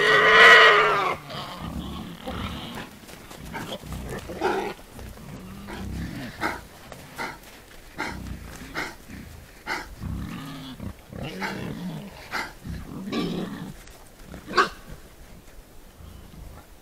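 A herd of wild boar grunting, with a loud high squeal in the first second, then scattered short low grunts and snuffling clicks.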